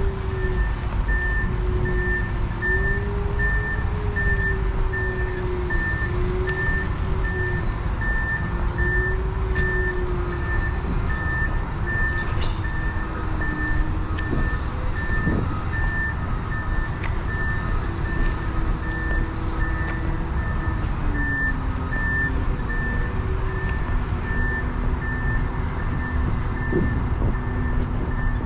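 A vehicle's reversing alarm sounding a steady run of evenly spaced high beeps, over a low rumble and a wavering engine-like hum that drops in pitch about two-thirds of the way through.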